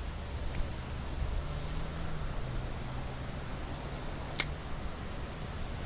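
Outdoor creekside ambience: a steady high-pitched insect drone over a low wind rumble on the microphone, with a single sharp click about four seconds in.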